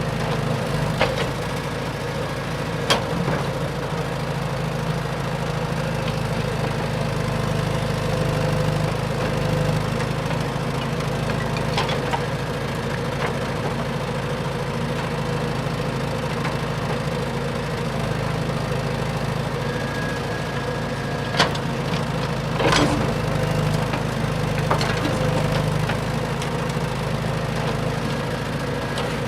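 Radio-controlled dump truck running: a steady engine-like drone, broken by a few sharp knocks or clicks.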